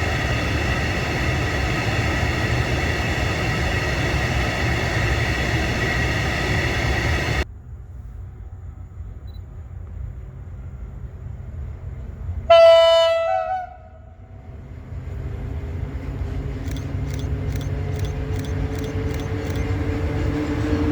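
A train running past with a steady rumble and held tones, which stops abruptly; then one short, loud train horn blast, and a train approaching, growing louder, with a regular clicking near the end.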